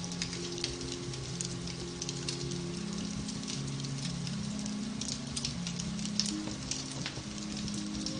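Beech-wood fire crackling in a fireplace, a steady hiss with frequent small pops, over soft, slow piano music with held low notes.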